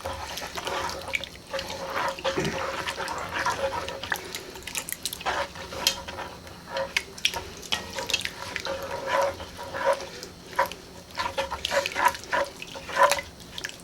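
A wet mixture of soup, water, rice, beans and tomatoes being stirred in a Dutch oven, with many short irregular scrapes and clicks of the utensil against the pot.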